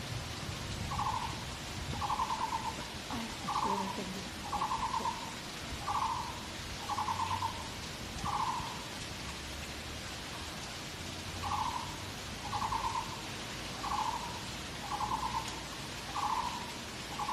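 A bird calling over and over: short rattling notes about one a second, in two runs with a pause of a few seconds between them.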